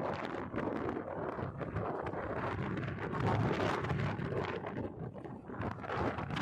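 Strong blizzard wind gusting and buffeting the microphone, a rough, uneven rumble that dips briefly near the end.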